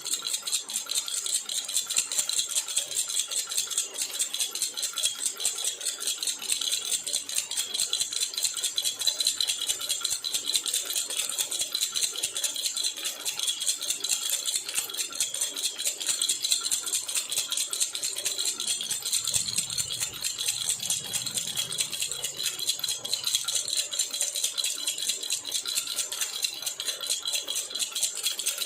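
A silver jhunjhuna baby rattle being shaken continuously in a fast, even rhythm, its small metal pieces jingling and clicking without a break.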